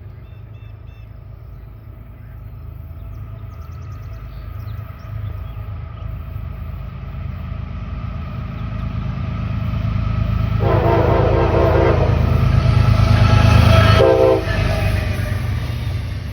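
Train approaching with its rumble building steadily, the locomotive horn sounding one long blast about two-thirds of the way in and a short blast near the end, the loudest moment as it draws close.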